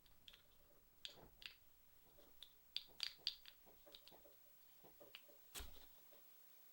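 Soft, irregular clicks and light taps from small objects handled close to the microphone, a couple of sharper ones about three seconds in and a fuller click with a low thump about five and a half seconds in.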